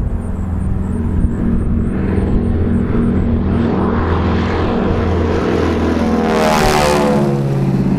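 Propeller airplane engine passing close by in a low flyby: a steady drone builds to its loudest about two-thirds of the way through, then drops in pitch as it goes past.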